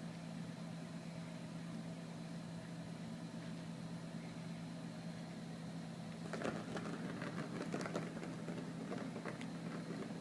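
Steady low mechanical hum, like an appliance or motor running, with a stretch of scattered clicks and scuffs starting about six seconds in.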